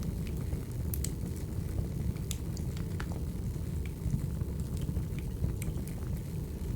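Wood fire burning, with a steady low rumble and sharp, irregular crackles and pops from the burning logs.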